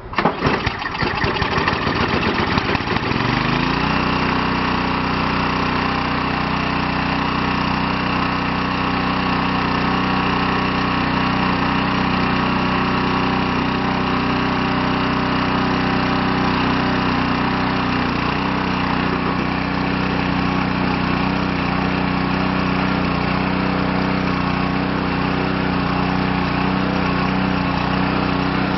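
Ariens snowblower's small gas engine cold-starting on the first pull with the choke on: uneven firing at first, speeding up over about three seconds, then settling into steady, even running.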